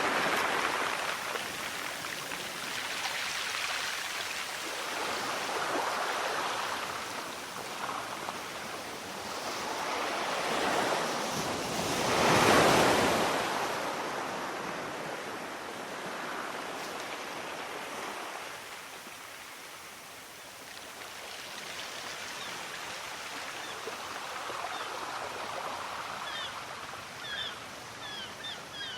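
Sea waves washing in and drawing back in slow surges, the biggest one breaking about twelve seconds in. A few faint, short, high chirps come in near the end.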